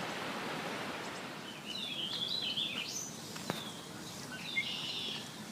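A songbird singing in short repeated chirping phrases, starting about a second and a half in, over a steady rushing noise that fades early on. There is a single faint click near the middle.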